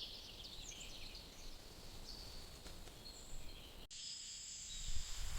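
Rainforest ambience: birds chirping and insects calling over a faint low hiss. About four seconds in the sound cuts abruptly to a steadier, high insect drone.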